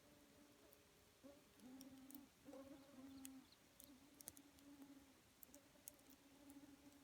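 Campfire crackling faintly, with scattered sharp pops, while a fly buzzes on and off close by.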